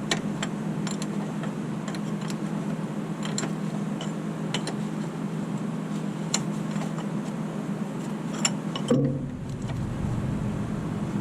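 Light metallic clicks and taps of hand tools working on a newly fitted engine oil level switch, scattered irregularly over a steady low hum that changes about nine seconds in.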